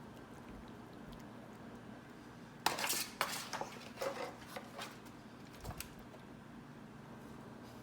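Spatula scraping and clinking against the dish as steamed fish and vegetables are lifted onto a plate: a quick run of clattering scrapes lasting about two seconds, starting a third of the way in, then a couple of light knocks.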